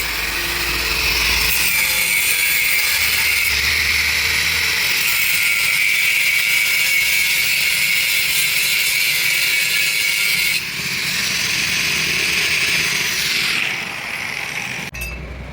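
A power tool working metal with a loud, steady grating sound. The sound changes about ten seconds in, then eases off and cuts off sharply near the end.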